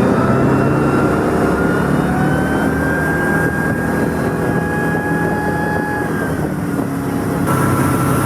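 Wakeboard tow boat's engine running under way, a steady drone over a rush of wind and water noise. Its pitch creeps up slightly in the first couple of seconds and then holds; the hiss turns brighter abruptly near the end.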